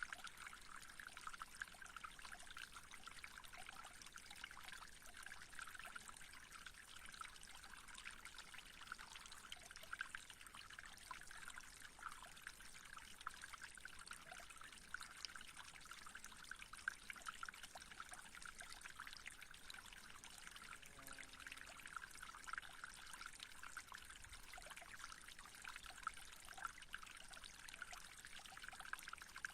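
Faint, steady trickling of running water, like a small stream or fountain.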